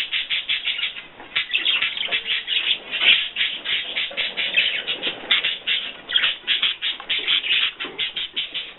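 A group of small cage birds chirping and chattering, many quick short calls a second in a continuous stream.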